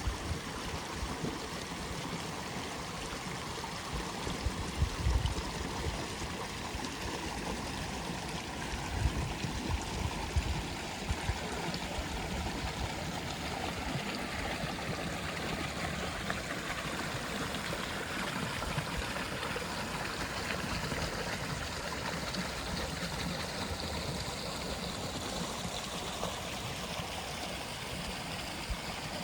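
Steady rush of flowing water, like a stream, with a few brief low rumbles about five and ten seconds in.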